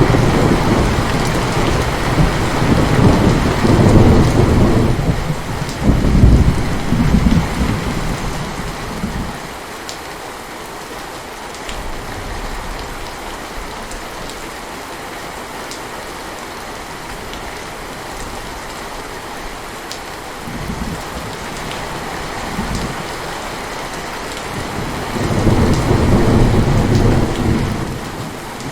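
Heavy rain falling steadily, with thunder rumbling loudly through the first nine seconds or so and again near the end.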